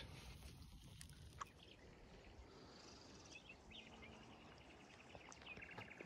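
Near silence: faint outdoor ambience with a few faint bird calls, including a short rapid trill near the end.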